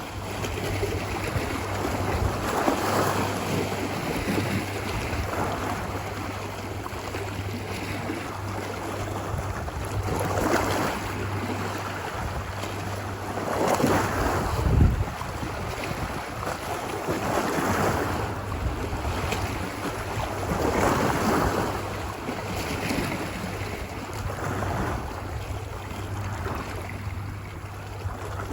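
Ocean surf washing ashore, a steady wash that swells with each wave every few seconds; the biggest wave breaks about halfway through with a low thud.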